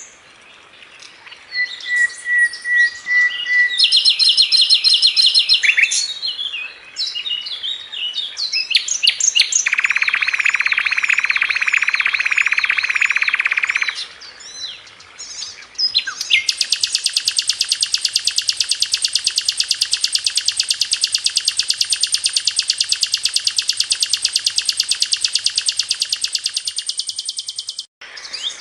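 Sikatan londo flycatcher singing: a varied run of sharp chirps and rapid trills, then a dense buzzy phrase, then one long, very fast, even trill for about eleven seconds in the second half.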